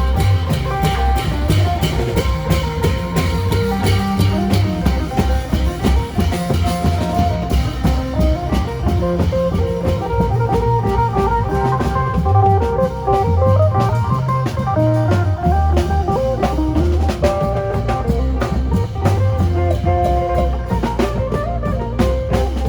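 An Isan phin band playing a lam phloen groove: a plucked phin lute carries a busy melody over a drum kit keeping a steady, fast beat.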